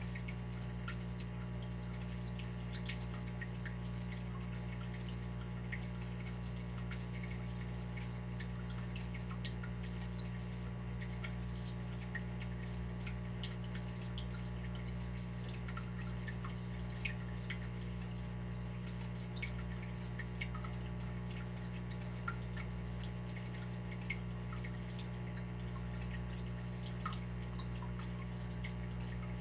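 Water dripping: small irregular drops ticking one after another over a steady low hum.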